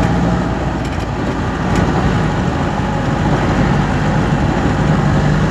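A motor vehicle's engine running steadily under a constant rush of road noise.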